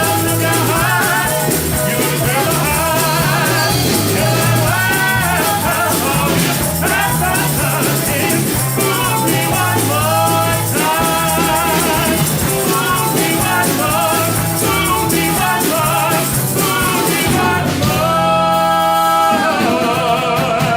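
Live band playing an instrumental passage of a rock-country song, a wavering lead melody over bass and drums, ending on a held chord near the end.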